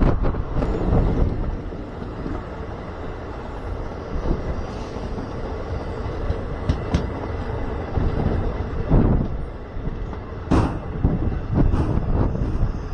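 Passenger train running along the track, heard from on board: a steady rumble and rattle with a few sharp knocks, the loudest about ten and a half seconds in.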